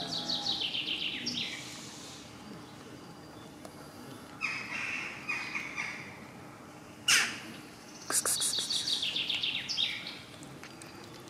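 Birds chirping and chattering in fast runs of calls near the start and again about eight seconds in, with a few shorter calls between. A single sharp click about seven seconds in is the loudest sound.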